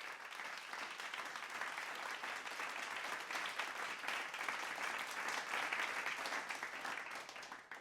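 Chicken sizzling as it cooks: a steady crackling hiss that fades out near the end.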